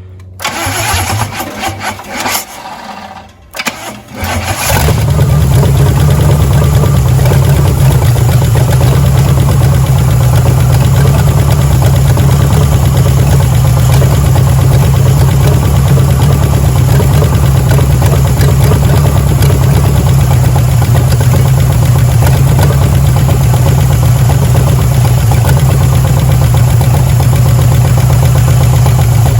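A 1977 Pontiac 350 V8, run out of the car on a stand, being cranked by the starter in uneven bursts for about four seconds before it catches, then running steadily and loudly with a deep rumble for the rest of the time.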